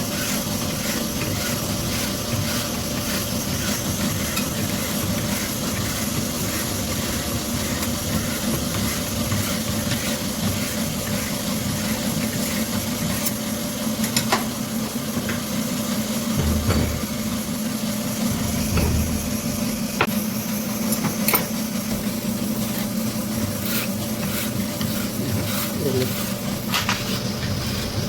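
Twin-head boring machine running steadily while boring a JCB engine's bushes: a constant machine hum and hiss with a few sharp ticks and two low thuds.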